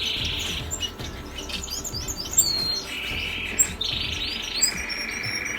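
Small aviary parakeets chirping and chattering, with many short high chirps over longer stretches of rapid buzzy chatter.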